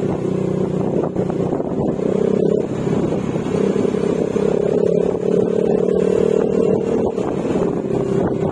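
Yamaha Mio Gravis 125 cc single-cylinder scooter engine with an Akrapovic exhaust and silencer, running at a steady cruise with small changes in pitch, with wind on the microphone.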